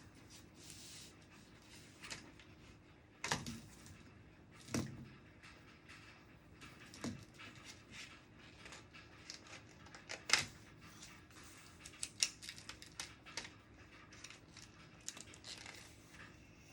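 Scattered light clicks, taps and small knocks from desk work: pens and small objects being picked up and set down, over a faint steady hum. The strongest knocks come about three, five, seven, ten and twelve seconds in.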